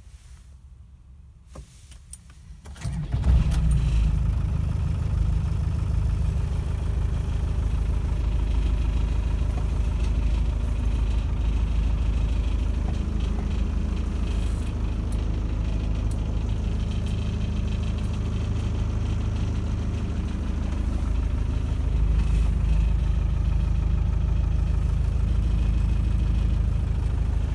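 Vehicle engine started from inside the cabin: after a couple of quiet seconds with a faint click, the starter cranks briefly and the engine catches about three seconds in. It then idles steadily, a little louder near the end.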